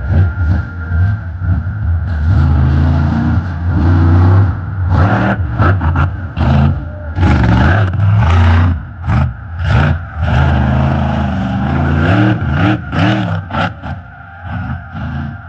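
Monster truck engine revving hard, its pitch climbing and falling again and again. A run of sharp bangs comes in the middle stretch, and the engine eases off near the end.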